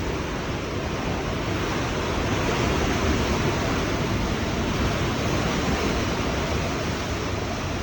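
Hurricane-force wind blowing steadily, with wind buffeting the microphone; it swells in a stronger gust a couple of seconds in and eases near the end.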